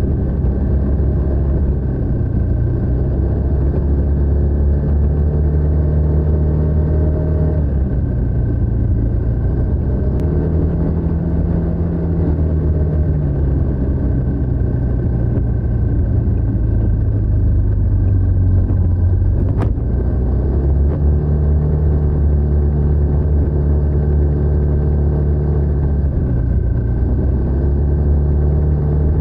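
TVS NTorq 125 scooter's single-cylinder engine running through its stock exhaust while riding, its pitch falling and rising several times as the throttle is eased off and opened again. A single sharp click comes a little before the twenty-second mark.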